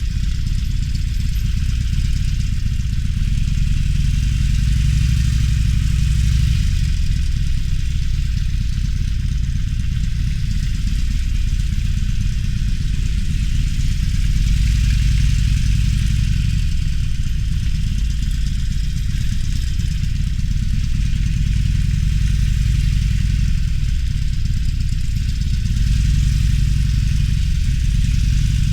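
Harley-Davidson Roadster's V-twin engine running while riding, a steady low engine note that swells a few times, with wind and road hiss above it.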